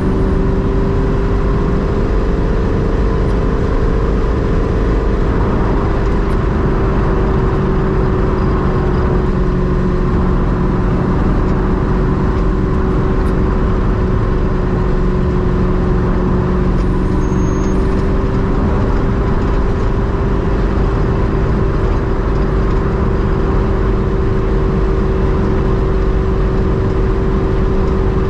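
Ultima RS's mid-mounted GM LS V8 pulling at a steady cruise, its note holding one even pitch, with road and tyre noise underneath.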